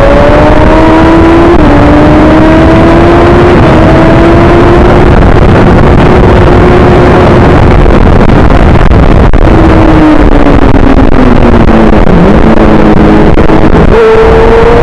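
Onboard racing motorcycle engine at full throttle, climbing through the gears with two quick upshifts near the start, held at high revs, then falling in steps as the bike shifts down, and picking up hard again near the end. A dense rush of wind noise runs underneath.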